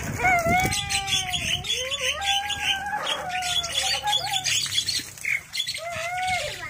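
Pet birds calling: arching, gliding whistled calls and squawks over rapid, dense high-pitched chirping.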